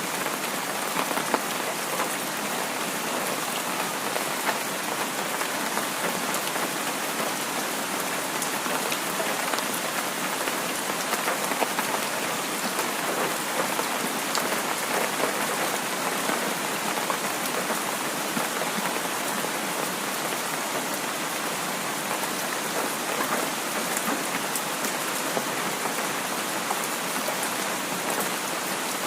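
Heavy rain falling steadily: a dense, even hiss of drops with scattered sharper drip ticks.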